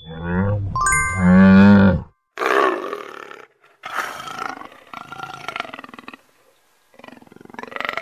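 Jaguar roaring: several rough roars in a row with short gaps, the first about two and a half seconds in. Before them a deep, wavering animal call runs for about two seconds and stops.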